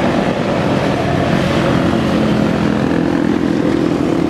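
Motorcycle engines running steadily as motorcycles ride past.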